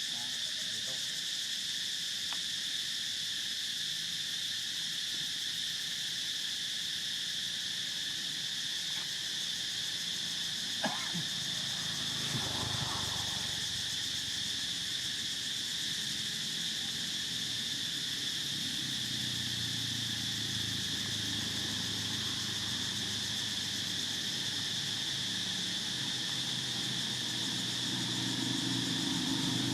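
Steady, shrill chorus of insects, a continuous high drone. A single click comes about eleven seconds in. A low motor-vehicle engine hum builds in the second half and grows louder near the end.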